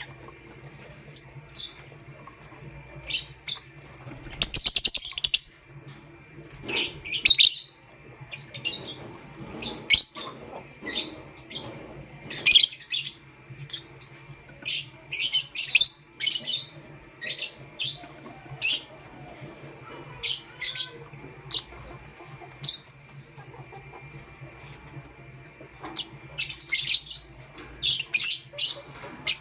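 Lovebirds chirping: many short, high chirps at an irregular pace, bunching into busier bursts about five seconds in, around seven and thirteen seconds, and again near the end.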